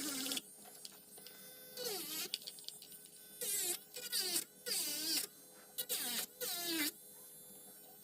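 Electric nail drill (e-file) buzzing in short passes, its whine dropping in pitch each time the bit bears on the nail and rising again as it lifts off: filing and shaping the nails.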